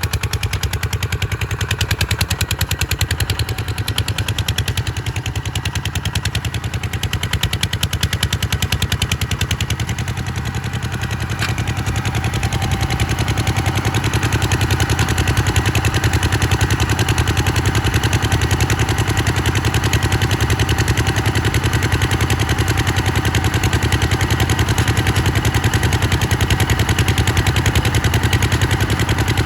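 Kubota RT140's single-cylinder diesel engine running steadily with a fast, even chugging, getting a little louder about halfway through.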